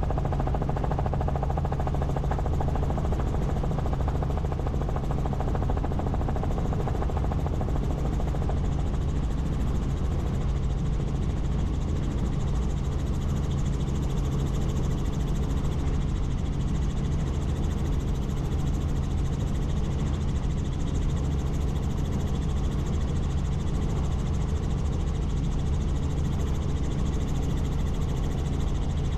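Tour helicopter in flight: a steady drone of rotor and engine with a constant low hum that does not change.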